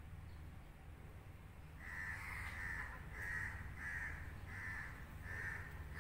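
A bird calling repeatedly, a series of about seven short calls beginning about two seconds in, spaced roughly half a second apart, over a low steady rumble.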